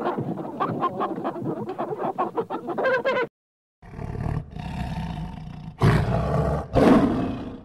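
Chickens clucking rapidly, then after a sudden cut a large animal roaring, with two loudest roars near the end.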